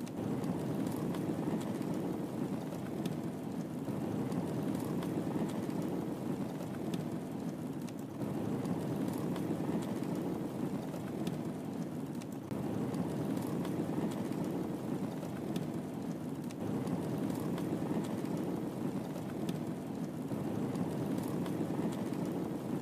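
Wood fire crackling in a fireplace: a steady low rush of burning with sparse sharp crackles and pops. It is a loop that repeats about every four seconds.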